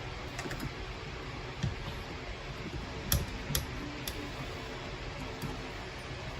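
Scattered sharp clicks and light taps of a small screwdriver and parts on the plastic and metal of a Cadillac CUE touchscreen unit as it is taken apart, about half a dozen irregular clicks with the loudest about three seconds in, over a steady background hiss.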